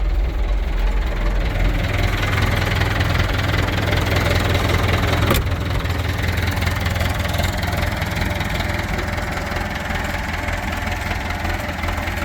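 Massey Ferguson 698 Turbo tractor's turbo diesel engine running steadily, with a single sharp click about five seconds in.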